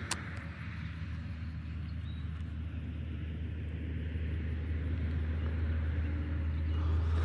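A low, steady motor hum that grows gradually louder, with one sharp click right at the start.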